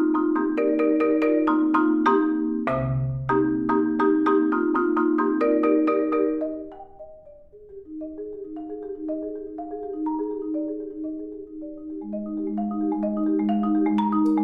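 Solo marimba playing fast, dense repeated notes and chords for about six seconds, then dying away. After that come softer, spaced single notes over a low rolled note, building again in loudness near the end.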